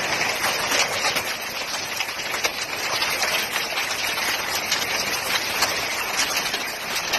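Heavy rain mixed with hailstones pelting down: a dense, steady hiss dotted with many sharp ticks of hailstones striking.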